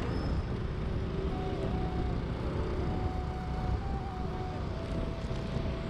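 Motor scooter running along the road, its engine drone shifting a little in pitch, under heavy wind rumble on the microphone.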